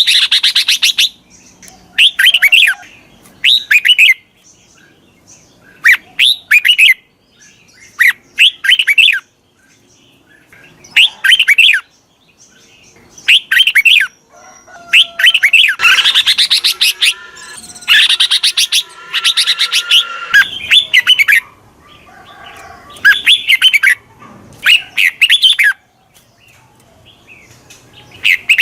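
Red-whiskered bulbul singing: short, loud phrases of quick whistled chirps, repeated every second or two, with a few longer, busier bursts in the middle. This is a decoy bulbul's call, the kind used to lure wild bulbuls and set caged ones singing.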